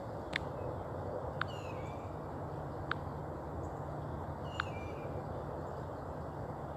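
A bird giving sharp, brief call notes every second or so, twice followed by a short falling chirpy phrase, over a steady low outdoor hum.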